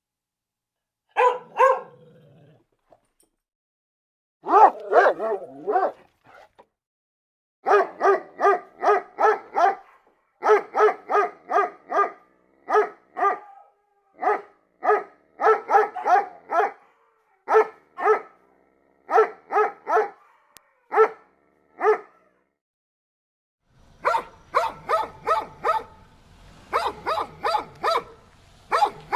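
A dog barking repeatedly: runs of short, fairly high-pitched barks at about three a second, broken by pauses. A low hum comes in under the barks near the end.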